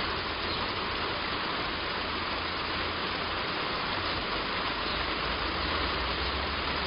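Heavy rain falling steadily on a roof: an even, dense hiss with a low rumble underneath.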